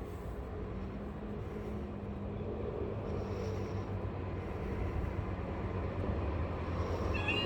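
Road traffic running past with a steady low engine rumble, slowly growing louder. Right at the end the level crossing's warning alarm starts up, a high tone alternating between two pitches.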